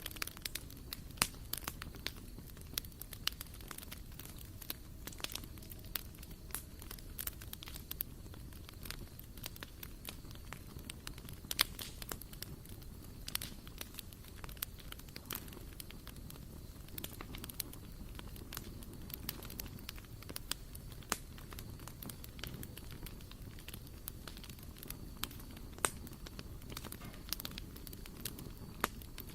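Wood fire burning in a barbecue grill, crackling with many sharp, irregular pops over a steady low rumble.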